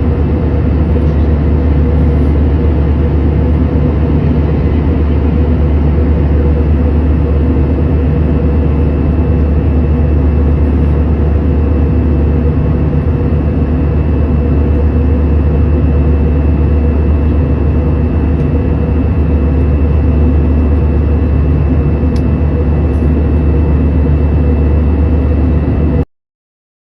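Airliner cabin noise: the loud, steady drone of the jet engines and airflow heard from inside the cabin, with a faint steady whine above it. It cuts off suddenly near the end.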